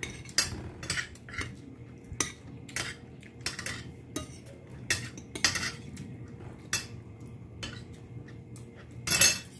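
Close-up eating sounds: wet, irregular clicks and smacks of chewing, with fingers picking rice and fish from a plate, and a louder smack near the end.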